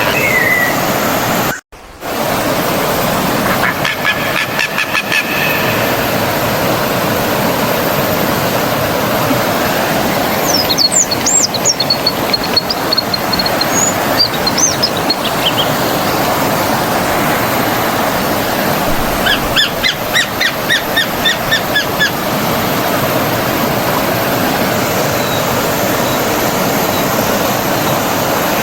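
Stream water rushing steadily, with birds calling over it in a few short bouts of quick repeated chirps. The sound drops out for a moment about two seconds in.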